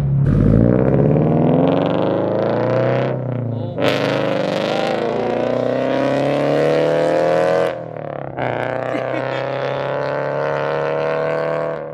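Scion FR-S's FA20 flat-four running loud through unequal-length headers, a catless front pipe and a Tomei 80R cat-back, giving the uneven Subaru rumble. The revs climb three times, each pull falling off sharply before the next.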